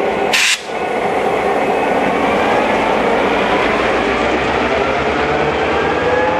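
Train rolling on the rails during switching moves: a steady wheel-on-rail rumble with faint wavering tones over it. A short sharp hiss about half a second in, then a brief dip in loudness.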